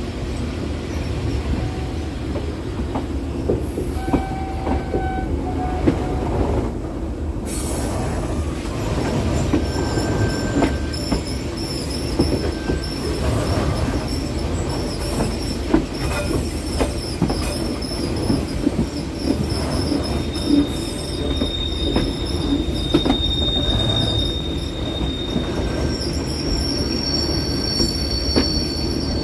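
Passenger train's steel wheels squealing against the rails on tight curves of a mountain-pass climb, over a steady low running rumble with scattered clicks. A single high squeal holds for several seconds in the second half.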